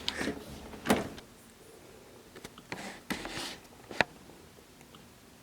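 A few scattered soft clicks and brief handling noises, with one sharp click about four seconds in.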